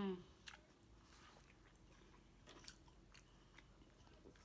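Faint close-up chewing of a soft quesadilla: scattered wet mouth clicks and smacks, about one or two a second, after a short hummed 'mmm' right at the start.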